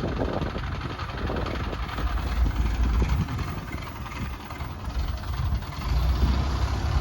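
An engine running at idle, a low rumble that swells and eases.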